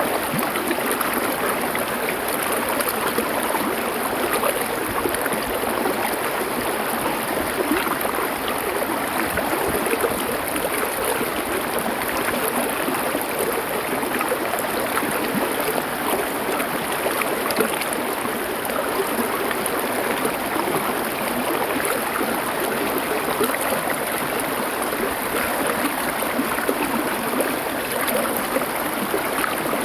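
Small river or stream running steadily over stones, a continuous rushing wash of water with fine gurgles.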